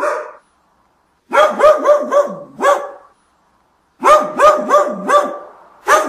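Puppies yapping in short runs of quick, high-pitched yips, with silent pauses between the runs.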